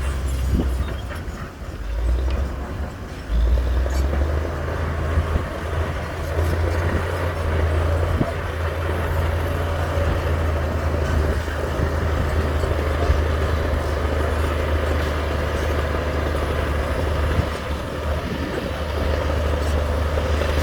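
Heavy diesel construction machinery, a bulldozer or dump truck engine, running steadily under load. It dips briefly about two seconds in, then picks up sharply and stays loud.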